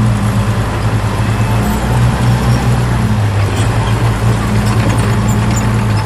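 Heavy earthmoving machine's diesel engine running steadily under a low hum, with a brief dip in the drone about three seconds in and a few faint high ticks of metal near the end.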